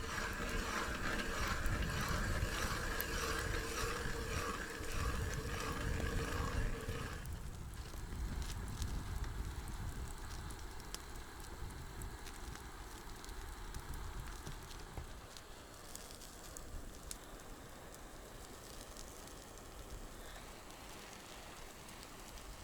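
Small campfire of wood burning, with faint scattered crackles, over a steady low wind rumble on the microphone. For about the first seven seconds a steady pulsing hum sounds over it, then stops abruptly.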